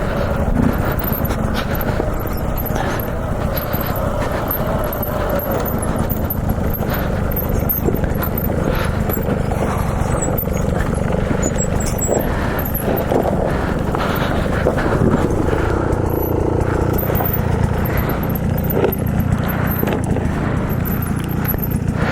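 Dirt bike engine running steadily while riding along a dirt trail.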